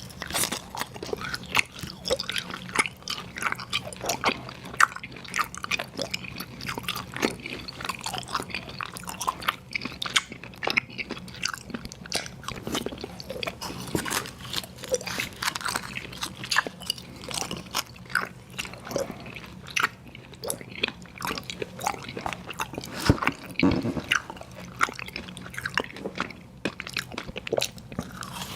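Close-miked chewing and crunching of sour gummy worms cereal: a dense, irregular run of crunchy bites and chews without a break.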